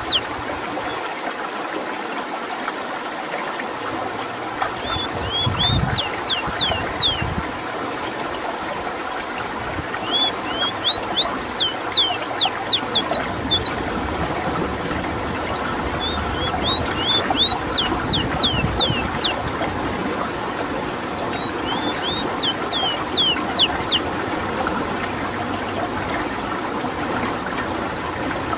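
Ruddy-breasted seedeater singing: short phrases of quick, high notes, repeated every five or six seconds over a steady background hiss.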